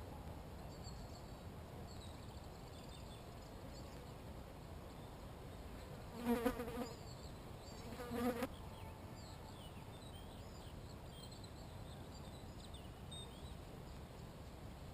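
A flying insect buzzing close past the microphone twice, a loud drone about six seconds in and again about two seconds later. Faint distant birdsong chirps underneath.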